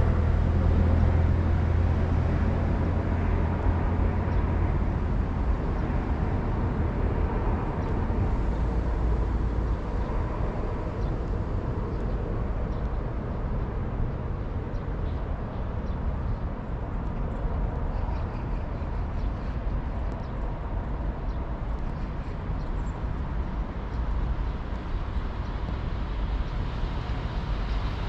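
Low, steady rumble of trains running on a railway line with road traffic around it. It is loudest at the start, eases off over the first several seconds, and picks up again near the end.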